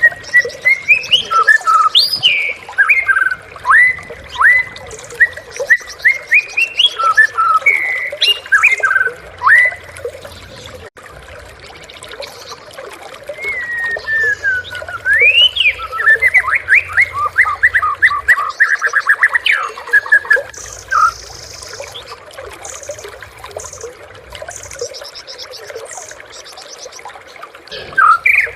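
White-rumped shama (murai batu) singing: loud whistled phrases with sharp rising and falling notes, including a fast run of repeated notes partway through, then a quieter spell of faint high notes near the end.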